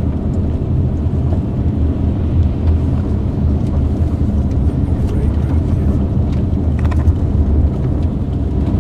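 Steady low rumble of a car's engine and tyres heard from inside the cabin while driving, with a few faint clicks about seven seconds in.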